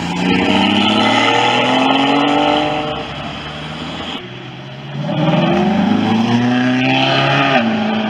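A car engine accelerating hard twice, its pitch climbing steadily each time; the second run drops abruptly in pitch near the end.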